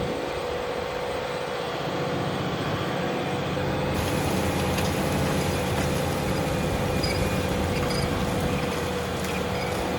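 Fendt tractor running steadily under load while ploughing: a continuous engine drone with a steady whine over it.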